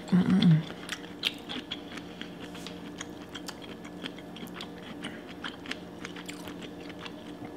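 Close-up chewing and wet mouth sounds of someone eating seafood boil by hand, with a brief hummed "mm" at the start and many small scattered clicks and smacks after, over a faint steady hum.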